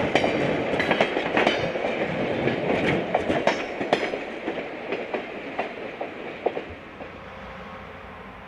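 Passenger train rolling past, its wheels clicking and clattering over the rails. The sound fades off after about six seconds as the train moves away.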